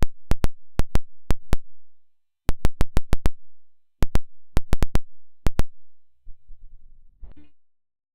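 A run of sharp clicks in uneven groups, each with a dull low thump, and a short rattling burst about seven seconds in.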